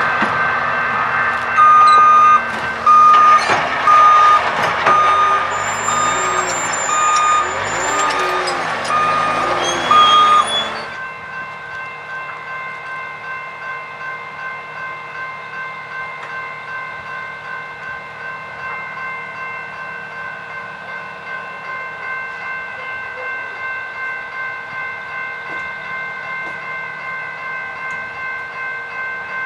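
A train passing through a grade crossing while the crossing warning bells ding in a regular beat. About eleven seconds in the train noise stops suddenly, and the crossing bells keep ringing on their own at about one ding a second.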